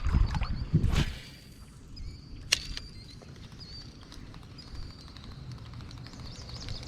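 A fishing rod cast: a swish about a second in, then a single sharp click. Small birds chirp throughout over outdoor creek noise.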